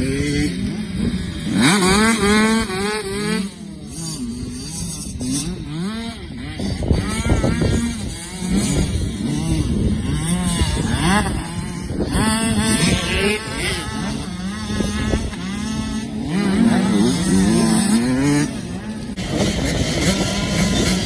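Several motocross bikes' engines revving hard, the pitch climbing and dropping again and again through gear changes and throttle blips as they race on the track, with overlapping engines.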